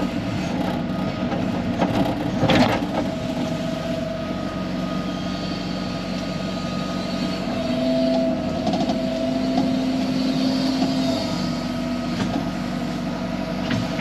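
Excavator's diesel engine running steadily while it digs, with a sharp clank about two and a half seconds in. The engine note rises for a few seconds about eight seconds in as it works harder.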